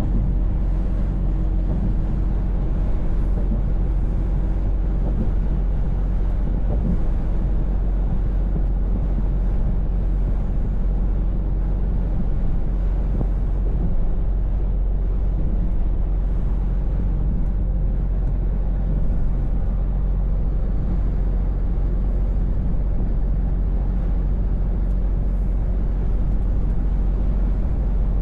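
Scania V8 truck engine running at a steady pace under way, a low even drone.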